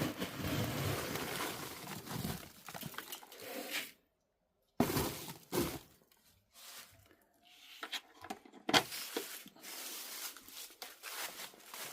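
Chicken feed being scooped and poured: grain rustling and rattling, with a few sharp clatters of the scoop.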